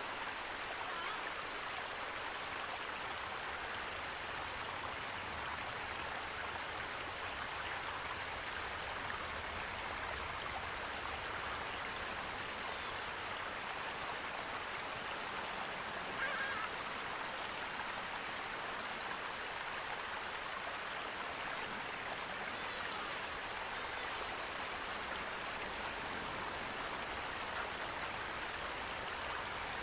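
Steady, even rush of running water. About halfway through, one short bird call rises briefly above it.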